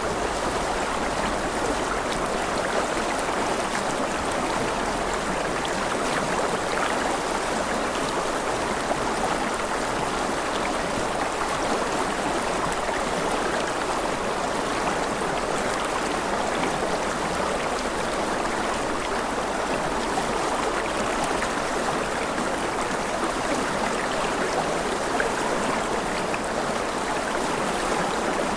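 Running water of a stream flowing: an even, steady rush that does not change.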